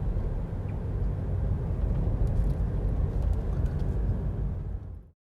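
Steady low outdoor rumble with a few faint high ticks, cutting off abruptly about five seconds in.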